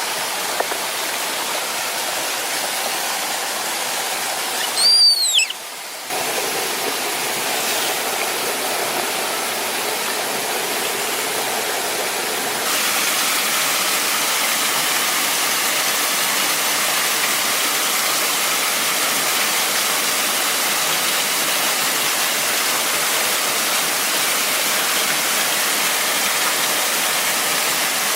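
Steady rushing water of a waterfall. About five seconds in it dips briefly and a single short falling whistle sounds, then it comes back a little louder from about thirteen seconds.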